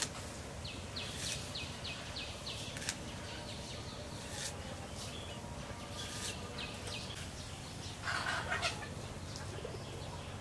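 Birds calling outdoors: a quick run of short, high notes in the first seconds. A chicken clucks briefly near the end, over a steady low background noise.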